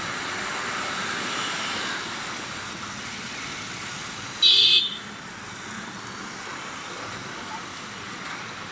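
Street traffic noise with a steady hum of passing vehicles. About halfway through, a vehicle horn gives one short, loud beep.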